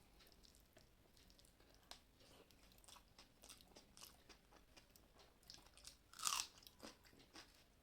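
A person eating a Bengali meal of rice and mashed pumpkin and potato, with faint chewing and crunching and small mouth clicks. There is one louder crunch about six seconds in.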